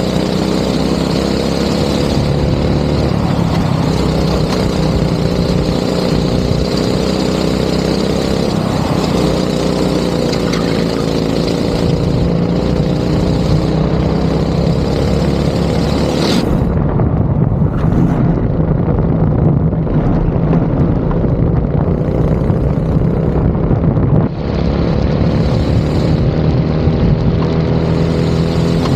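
Go-kart engine running hard on track, its pitch rising and falling as the kart accelerates and lifts through the corners. The sound changes abruptly about halfway through, when the hiss in the upper range drops away.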